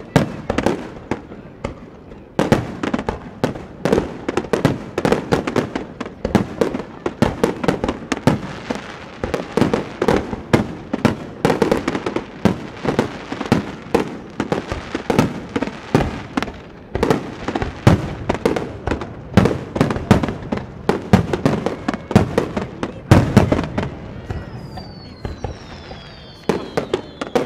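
Aerial fireworks shells bursting in a rapid barrage, booms and cracks several a second without a break. Several falling whistles come in near the end.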